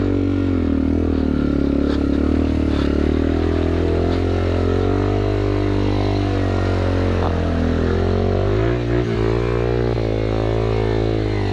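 2009 Yamaha TW200's single-cylinder four-stroke engine running under way off-road in mud, its pitch rising and falling with the throttle. About nine seconds in it briefly drops off, then picks up again.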